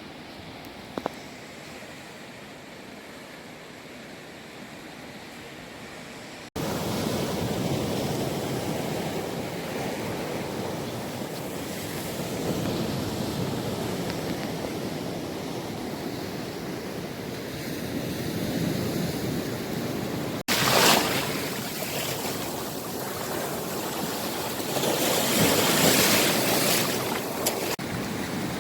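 Ocean surf washing on a beach, with wind on the microphone. The sound jumps abruptly louder twice, and waves swell up about two-thirds of the way through and again near the end.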